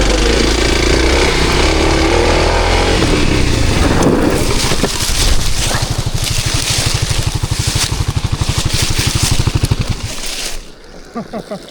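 Gas dirt bike engine running and revving, then settling into a low, even chugging in the second half before dropping away near the end.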